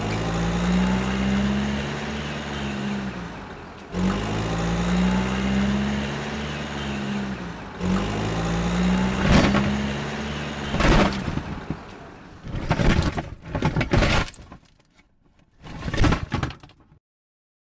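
A small motor whirs in three runs of about four seconds each, its pitch rising slightly and then dropping off as it stops. After that come scattered sharp clattering knocks.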